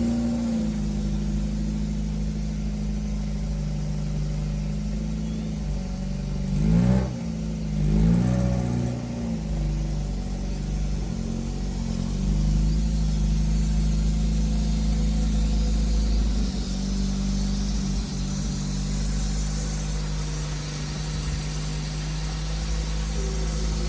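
A car engine running steadily, with two short revs, one about seven seconds in and another about a second later.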